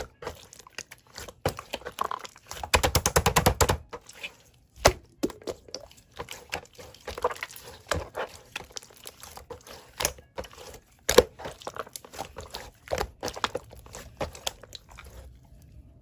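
Slime being squeezed and pressed by hand, giving a string of sticky clicks and pops, with a fast crackling run of about a second some three seconds in. It stops shortly before the end.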